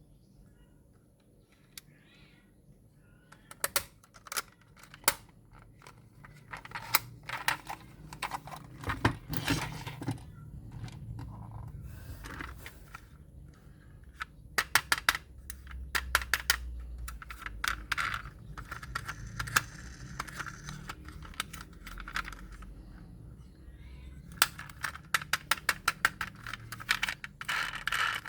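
Hard plastic toys and packaging being handled: scattered sharp clicks and taps, some in quick runs of several a second, over a light rustling and scraping.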